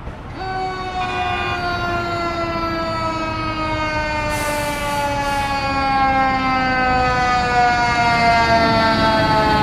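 Fire engine's Q-style siren starting up about half a second in and then slowly winding down in pitch, over the truck's running engine.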